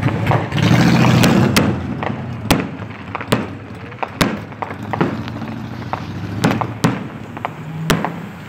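Fireworks going off: a rapid, irregular series of sharp bangs and cracks, about one or two a second, with a denser, louder rush about a second in.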